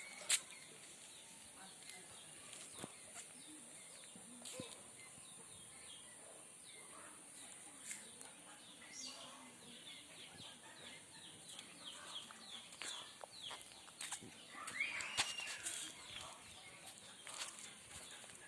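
Birds calling: runs of short, quick chirps, with a louder, longer call about fifteen seconds in, occasional sharp clicks, and a steady high hiss underneath.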